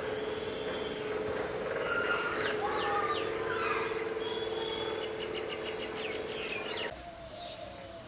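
Songbird chirping and whistling: high held whistles, then a quick run of sharp falling chirps through the middle. A steady low mechanical hum runs underneath, and both cut off suddenly about seven seconds in.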